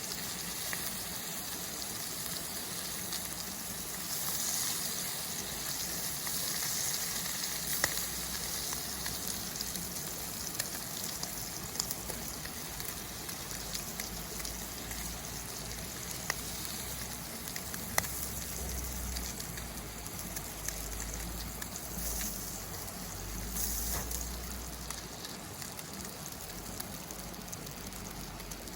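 Food sizzling in a frying pan over a campfire: a steady hiss with occasional sharp pops and crackles.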